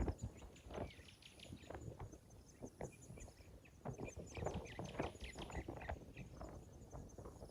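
Irregular knocks and clatters, with faint high chirping in the background.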